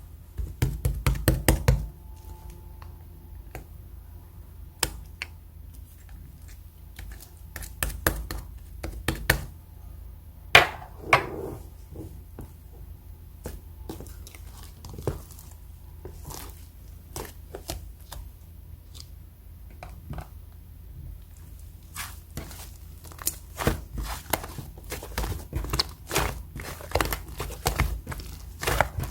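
Sticky, fluffy clay slime being squeezed, stretched and poked by hand, giving runs of small clicks and squishes. They come thick at the start, thin out through the middle with one louder squelch, and grow busy again in the last third.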